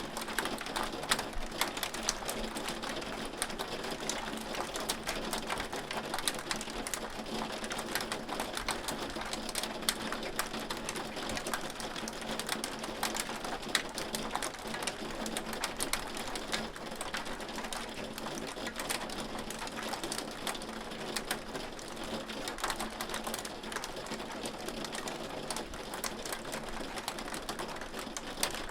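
Hail falling steadily: a dense, continuous patter of hailstones clicking sharply as they strike a hard surface, with a faint steady hum underneath.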